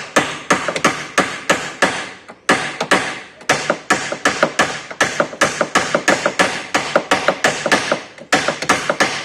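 Hammer rapidly striking a metal pin in a car door hinge, driving down a pin that had worked its way up and was making the door noisy. The sharp metallic blows come about three to four a second, with two brief pauses.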